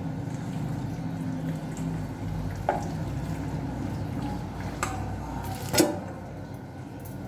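Three sharp clinks of a utensil against a dish, the loudest near the end, over a steady low hum.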